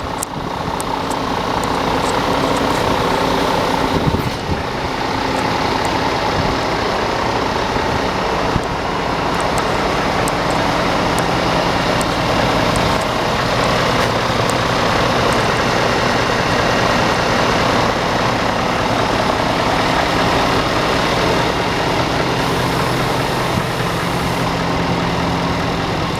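Scania 8x4 tipper truck's diesel engine idling steadily.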